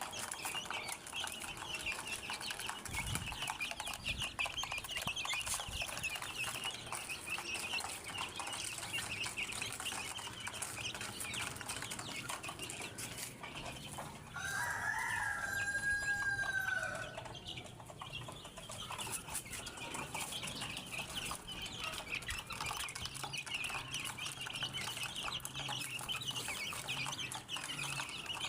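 A flock of chickens clucking and chattering continuously, with a rooster crowing once about halfway through.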